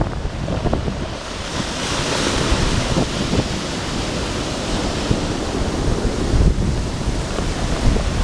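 Sea waves breaking on the shore, a hissing wash of surf swelling about a second and a half in, with wind buffeting the microphone as a low rumble.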